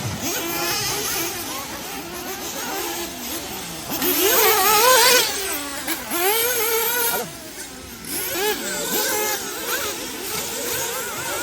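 Several 1/8-scale nitro off-road buggies with small two-stroke glow engines revving and easing off around a track, their high pitches overlapping and sliding up and down. They are loudest about halfway through.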